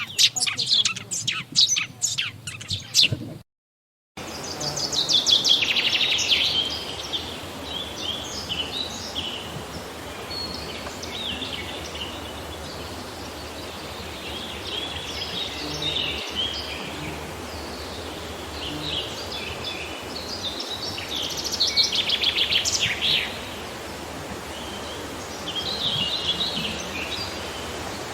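Songbirds singing. A rapid run of loud chirps for the first three seconds breaks off into a brief silence, then several birds chirp and trill over a steady background hiss, busiest just after the gap and again about two-thirds of the way through.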